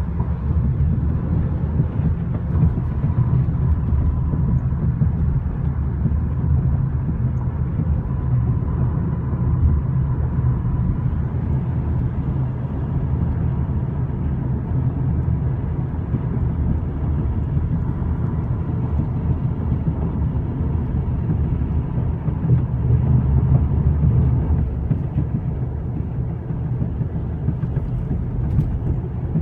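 Steady low rumble of tyres on the road from a moving 2013 Volkswagen CC R-Line, the sound the owner calls a weird tire noise. A faint high whine sits over it during the first third.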